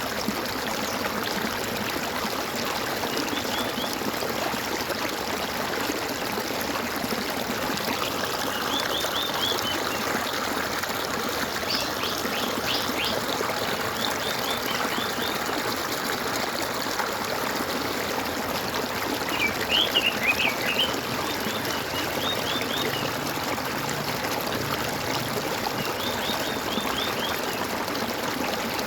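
Water gurgling and trickling steadily, with small birds singing short trills of quick chirps every few seconds over it, the loudest burst about two-thirds of the way through.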